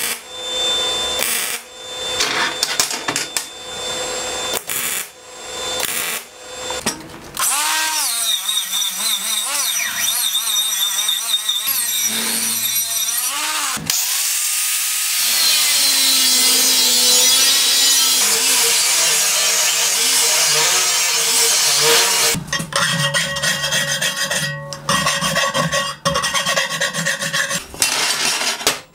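Metalworking in a shop: a welding arc crackles in short stop-start runs, then a DeWalt angle grinder grinds a flat steel bar. Its whine rises and falls with the load before a long, steady, loud grind, and there are more short stop-start bursts of tool noise near the end.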